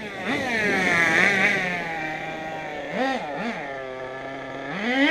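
Small nitro RC truck engine running at high revs and easing off to a lower, steady pitch. About three seconds in come two quick throttle blips, and near the end it revs up sharply again.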